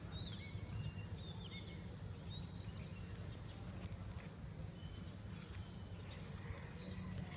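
Small birds chirping in short high calls over a steady low background rumble, most of the calls in the first few seconds.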